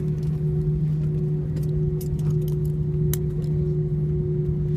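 Airliner cabin noise: a steady engine and air-system drone with a low hum and a higher steady tone over a rumble, and scattered light rattling clicks from cabin fittings.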